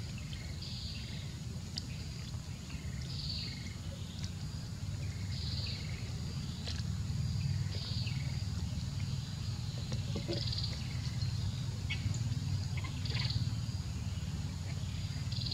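Outdoor ambience of short high bird chirps repeating every second or two over a steady low rumble.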